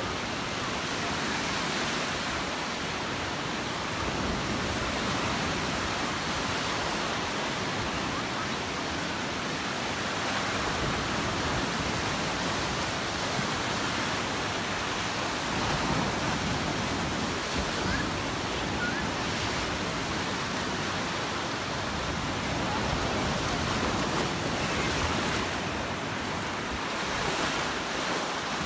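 Gulf of Mexico surf washing onto the beach, a steady rush with slow swells in level.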